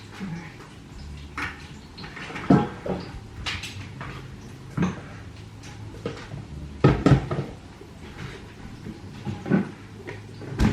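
Kitchen clatter while food is served: about eight separate knocks and clunks of dishes and cupboard doors, spread irregularly, over a low steady hum.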